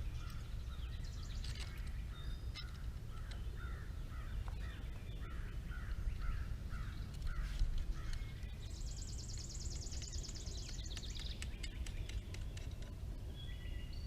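Birds calling: a run of short repeated calls for the first several seconds, then a high buzzy trill about nine seconds in, over a steady low background rumble.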